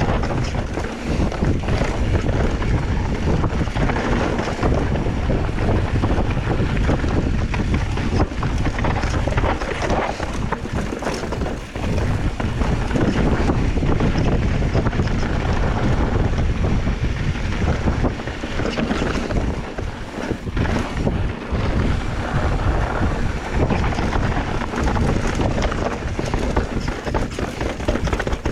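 Wind buffeting the microphone: a loud, gusting rumble that rises and falls throughout.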